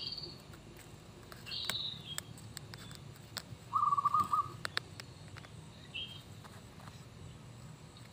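Birds calling: short high chirps near the start and about two seconds in, a louder pulsed call about four seconds in, and a brief note about six seconds in. Light clicks and scrapes of a metal hand tool and fingers working dry soil.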